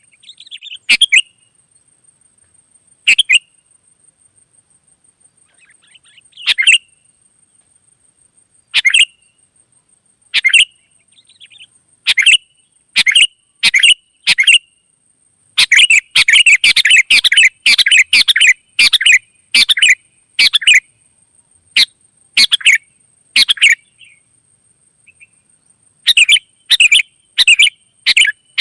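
Sooty-headed bulbuls calling: short bright chirps a few seconds apart, then, about halfway through, a fast run of chattering calls, with more quick calls near the end. A faint steady high-pitched whine runs underneath.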